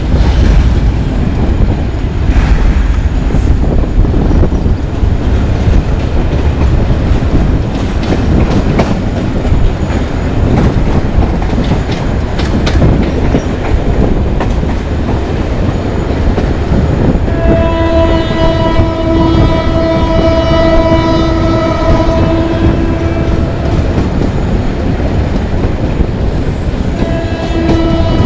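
Train hauled by a GT22CW diesel-electric locomotive running with a heavy rumble and wheel clatter over the rails. About two-thirds of the way through the horn sounds one long blast of some six seconds, and it starts to sound again near the end.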